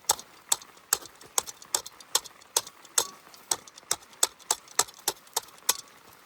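Footsteps crunching on frozen snow: sharp, evenly paced crunches, about two to three a second.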